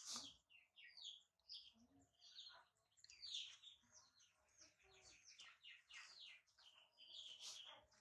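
Birds chirping faintly: a quick, continuous run of short high chirps, many sliding down in pitch. A single soft knock comes at the very start.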